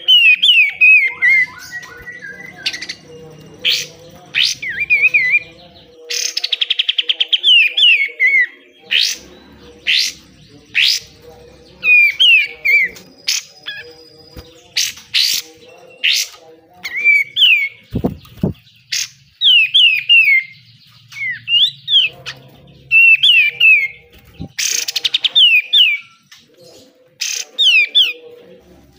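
Kapas tembak (a Lalage triller) calling in a rapid 'besetan' series. Groups of short chirps slide downward, mixed with sharp, harsh strokes, one burst after another.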